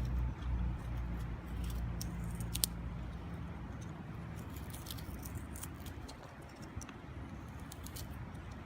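Wood fire crackling in a small wood stove, with irregular sharp pops and snaps over a steady hiss. A low rumble fades out in the first few seconds.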